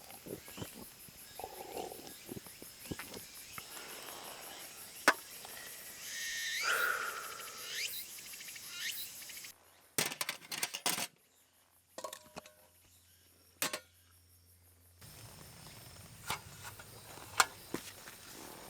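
A steady, high insect chorus with scattered sharp clicks and knocks. A pitched gliding squeak comes about six seconds in. The insects drop out for a few seconds midway, leaving a low hum and a few knocks.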